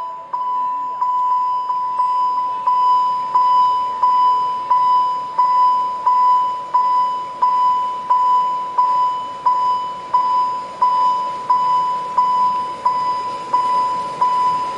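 Level crossing warning bell ringing steadily, about one and a half strokes a second, each stroke a ringing tone that dies away before the next.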